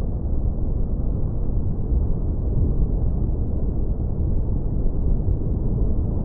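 Tropical beach ambience: ocean surf as a steady, deep rumble, with no distinct wave breaks.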